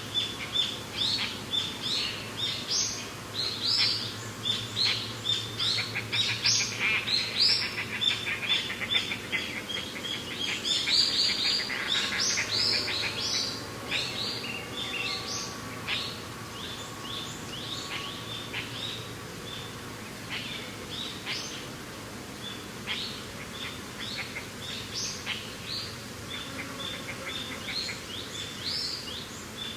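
Many birds chirping and calling in a dense chorus of short, high, overlapping notes, busiest in the first half. Under them runs a steady background noise.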